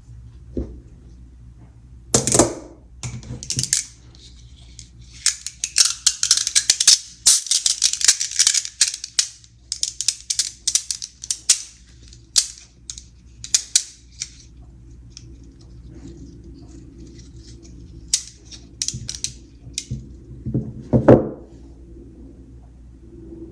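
Small magnet balls clicking and snapping together, with a dense run of rapid clattering clicks from about five to twelve seconds in and a couple of heavier knocks.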